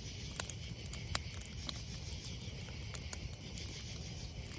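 Steady high chirring of an insect chorus such as crickets, with scattered small sharp clicks, the loudest about a second in, over a low rumble.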